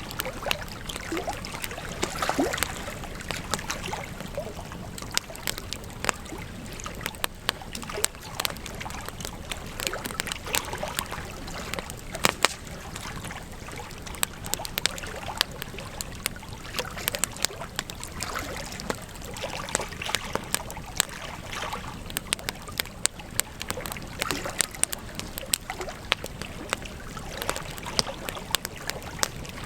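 Wood campfire crackling, with frequent sharp pops and snaps at irregular intervals over a steady hiss of the flames.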